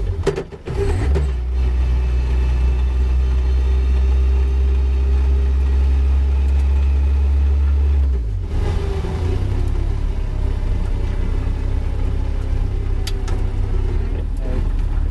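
Caterham 420R's four-cylinder engine running at low revs, heard onboard as the car crawls along at walking-to-jogging pace. The engine note changes about eight seconds in, and there are a few sharp clicks near the start.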